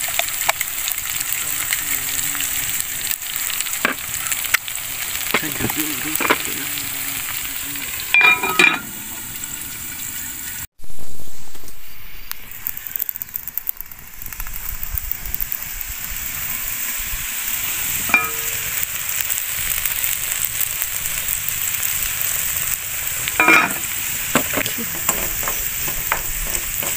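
Food sizzling in hot oil in a frying pan, stirred now and then with a wooden spoon, with a few short clinks. The sizzle cuts out abruptly about ten seconds in and comes straight back loud.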